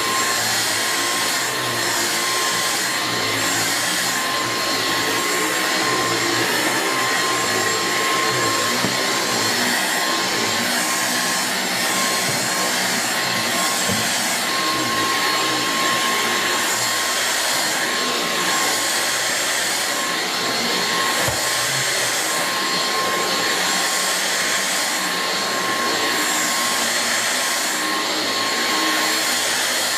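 Dyson V6 Absolute cordless stick vacuum running steadily while vacuuming: an even rush of air with a constant high-pitched whine from the motor.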